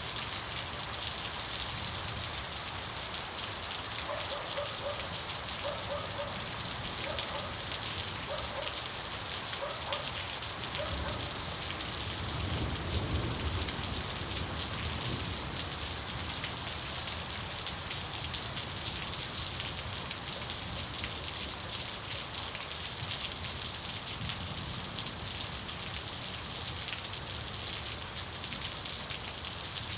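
Steady rain falling and pattering. About twelve seconds in, a low rumble of distant thunder swells for a couple of seconds.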